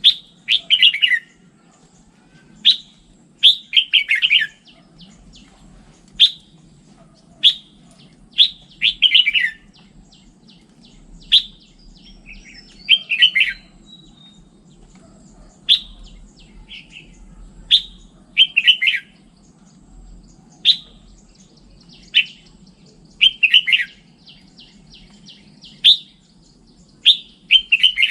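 Red-whiskered bulbul singing: short phrases repeated every second or two, each a sharp high note followed by a quick falling warble, over a faint low hum.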